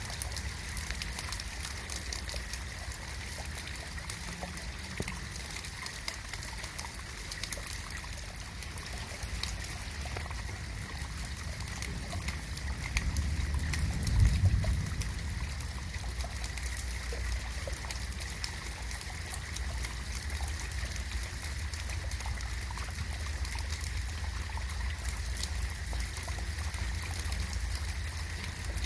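Steady rain falling, with fine drop patter and trickling water over a constant low rumble. A deeper low rumble swells briefly about halfway through.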